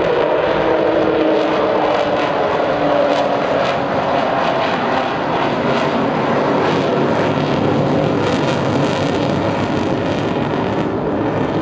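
Avro Vulcan's four Olympus jet engines, a loud steady rushing noise as the bomber flies its display. A tone within the noise falls in pitch over the first few seconds as the aircraft passes.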